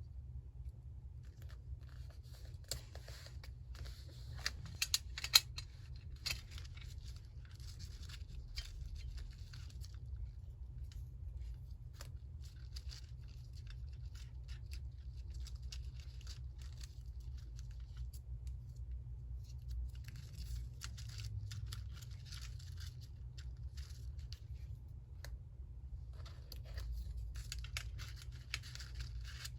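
Paper being handled for a collage: crisp rustling and crackling of paper in three spells, with a few sharp clicks about five seconds in, over a low steady hum.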